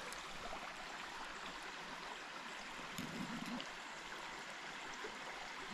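Creek water running steadily, with a faint, brief low tone about three seconds in.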